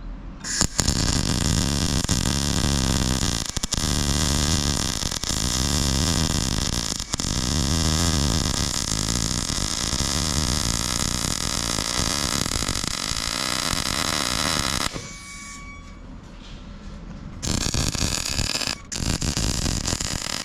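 Wire-feed welder arc crackling steadily as a weld bead is run around a round steel top plate where it meets a square-tube cone spike. One long run of about fourteen seconds stops, and after a short pause a second, shorter run follows with a brief break in it.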